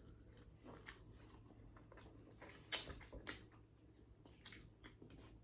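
Faint eating sounds: chewing, with a few short clicks and crunches scattered through, the loudest about three seconds in.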